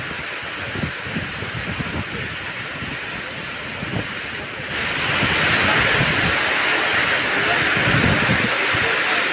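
Heavy rain pouring down in a steady hiss, with wind buffeting the microphone; the rain gets louder about halfway through.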